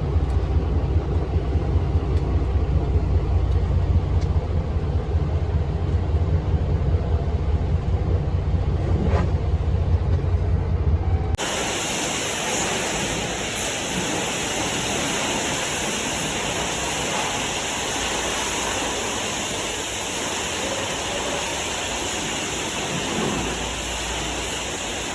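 A truck engine idling with a steady low rumble; about eleven seconds in it cuts off suddenly, replaced by the steady hiss of truck-wash water spray.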